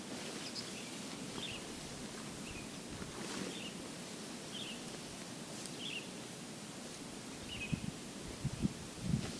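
Forest ambience: a steady hiss, with short high chirps from a small animal every second or so. A few low thumps come near the end.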